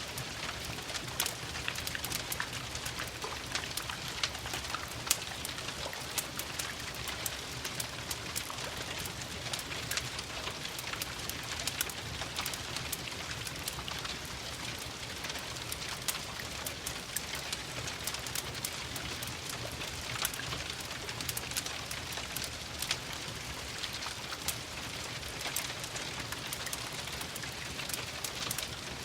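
Steady rain hissing and pattering, with frequent small sharp crackles and ticks from a fireplace fire scattered through it.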